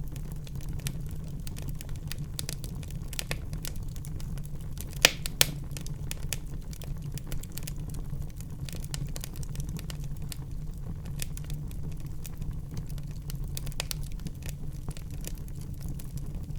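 Wood fire burning in a fireplace: a steady low rumble of the flames under continual small crackles, with two sharp louder pops about five seconds in.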